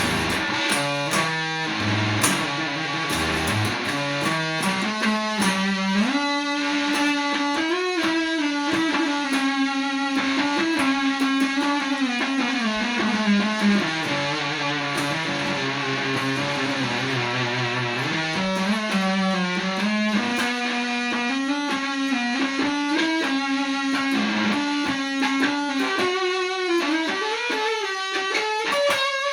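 Distorted electric guitar playing an instrumental blues-rock passage, quick runs of single notes mixed with longer held notes.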